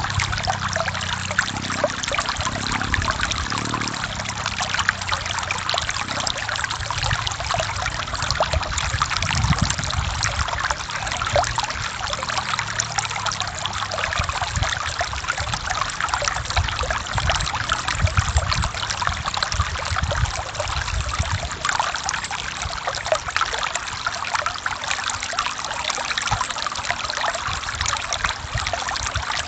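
Forest stream flowing over rocks: a steady rush of water with constant fine splashing and a low, uneven rumble underneath.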